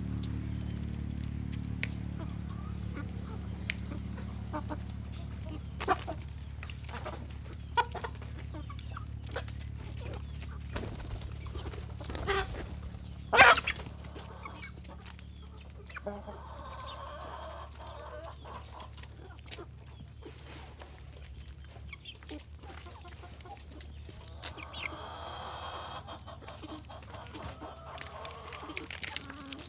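Chickens clucking over a steady low hum, with scattered sharp clicks and one louder knock about halfway through.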